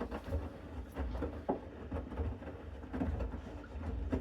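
Bosch Series 6 front-loading washing machine in its main wash: the drum turning with a low rumble, the wet laundry tumbling in soft, irregular thuds.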